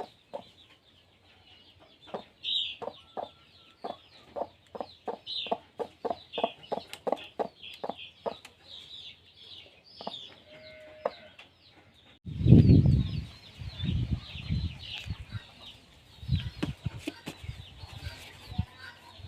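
Chickens clucking over steady small-bird chirping, with a string of sharp knocks in the first half and a loud, low thud about twelve seconds in, followed by further dull knocks.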